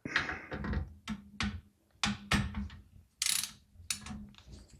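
Power supply bracket being removed from a small-form-factor PC case: a series of sharp clicks and rattles, with a short scraping hiss a little past three seconds in.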